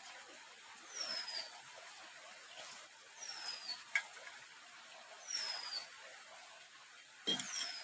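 A bird calling with a short, high falling whistle, repeated about every two seconds. There is a sharp click about halfway through and a knock near the end.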